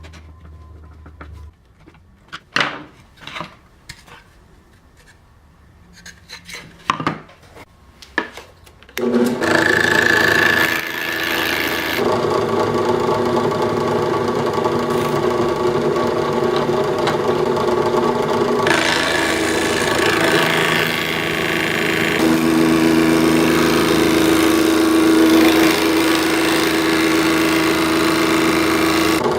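A few scattered knocks and clicks, then about nine seconds in a drill press starts and runs steadily, a Wagner safety planer in its chuck cutting across wood.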